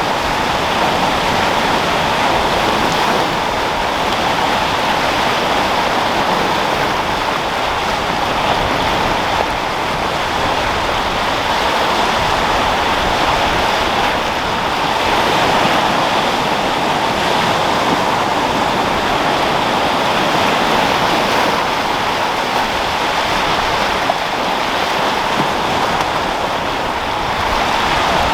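Sea surf and wind: waves rolling and breaking in a steady rushing wash that swells gently and eases without pause.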